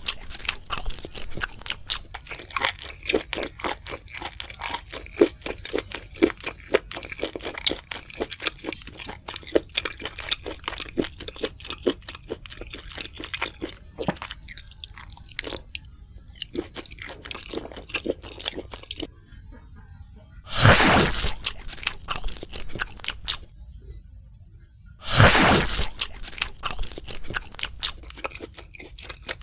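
Close-miked eating of crispy fried food: a dense, uneven run of crunching and chewing, with two loud bursts, one about two-thirds of the way in and one near the end.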